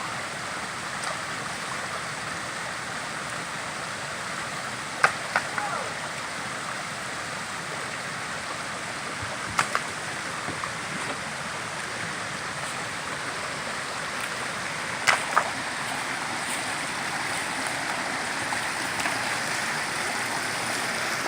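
A normally dry creek running high after two days of heavy rain: a steady rush of flowing water. Short sharp clicks come in pairs about five, ten and fifteen seconds in.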